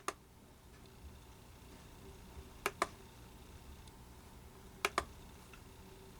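Computer clicking: three quick double clicks about two seconds apart, over a faint room hum.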